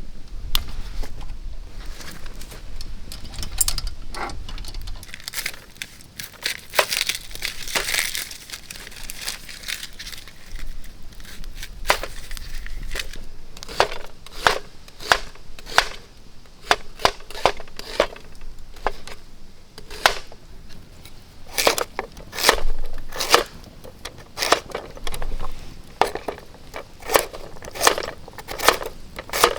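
Crinkling for a few seconds, then a run of sharp clicks and taps, coming about once or twice a second in the second half.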